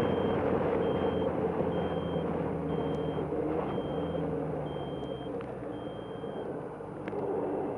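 A vehicle's reversing alarm beeps evenly, about once a second, then stops about six and a half seconds in. Under it, an engine runs steadily.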